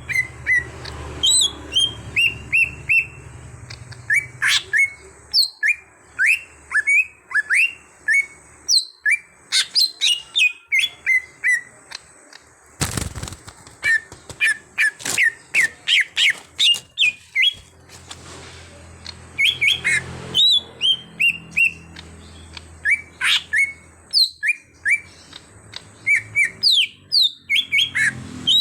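A cucak hijau (leafbird) singing: rapid runs of short, downward-slurred chirps and whistles broken by brief pauses. A single sharp knock cuts in about halfway through.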